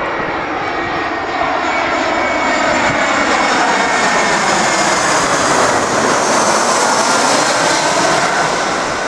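Twin-engine Airbus A321 jet passing low overhead on final approach to land, its engine noise growing louder and then its whine falling in pitch as it goes by.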